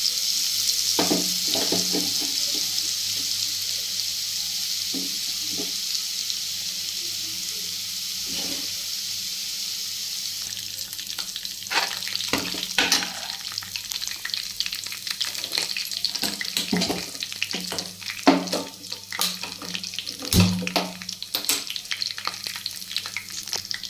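Chopped garlic and coriander sizzling as they hit hot mustard oil in a kadai: a loud, even sizzle at first that slowly dies down. From about halfway through, a steel ladle knocks and scrapes against the pan as the mixture is stirred.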